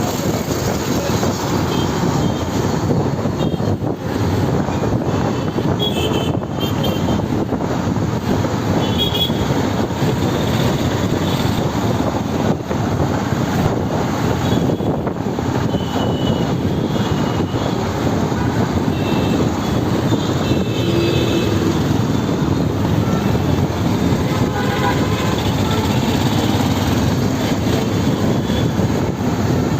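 Steady rush of riding noise from a motorbike moving through traffic, with a few brief, faint high tones.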